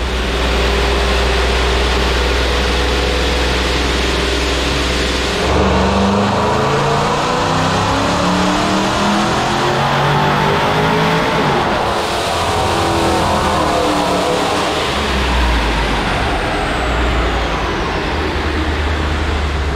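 Supercharged, cammed 5.7 Hemi V8 on a chassis dyno: it runs steadily, then about five seconds in goes to full throttle and climbs in pitch for about six seconds in a dyno pull. It then lets off and winds down, with a high supercharger whine sliding down as it slows.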